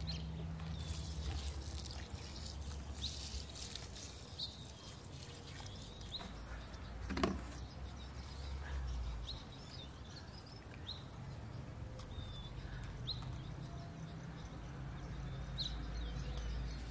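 Small birds chirping in short, high calls scattered through, over a low steady outdoor rumble. One brief louder sound comes about seven seconds in.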